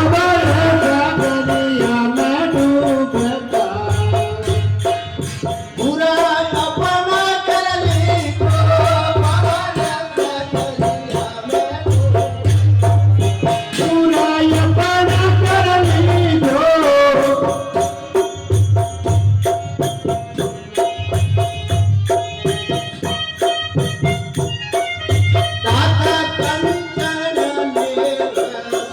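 A Rajasthani devotional bhajan to Baba Ramdev: a sung melody over steady held notes, with drum beats coming in repeated patches and rattling hand percussion throughout.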